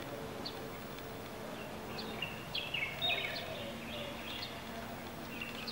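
Small birds chirping in short, quick, high-pitched phrases, clustered about two to three seconds in and again near the end, over a faint steady hum.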